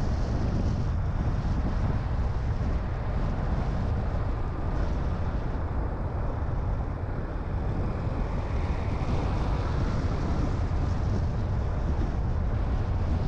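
A car being driven: a steady, low road-and-engine rumble with some wind noise.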